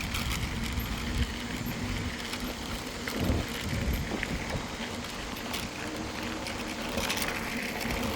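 Mountain bike rolling along a rail trail: steady tyre and riding noise with occasional small knocks and rattles.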